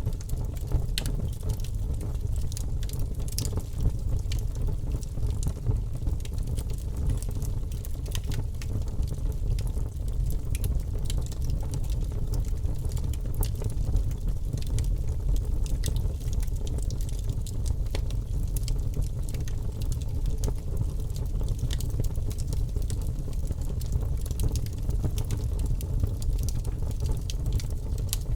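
Fire crackling steadily: a low rumble of burning with frequent small pops and snaps scattered throughout.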